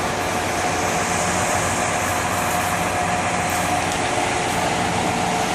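Ready-mix concrete truck running steadily close by, a level engine drone with a thin steady whine over it.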